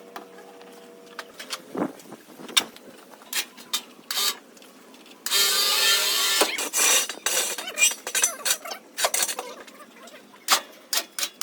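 Workshop work sounds: a string of sharp clicks and knocks, with a burst of hissing noise lasting a little over a second about five seconds in.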